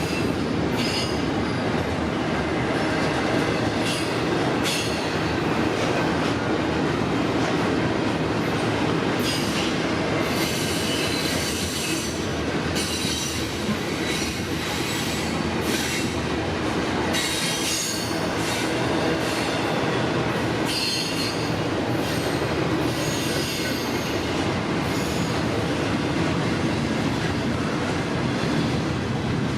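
Freight train cars rolling past close by, with a steady sound of wheels on rail. Short, high-pitched wheel squeals come and go every few seconds.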